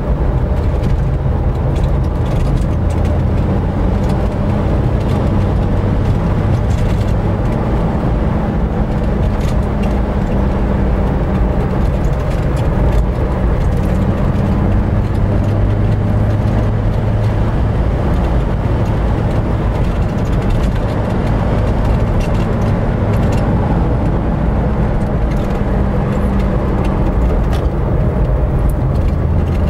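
1965 Chevrolet Corvair 500 with an air-cooled flat-six and dual exhaust, driving along with the engine running steadily and road noise underneath, the engine note shifting slightly as it goes.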